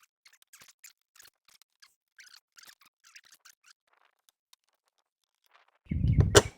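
A small hand ratchet being worked, giving faint, irregular clicks and scratches; the ratchet skips rather than holding. Near the end there is a sudden loud, low rumble with a sharp knock in it.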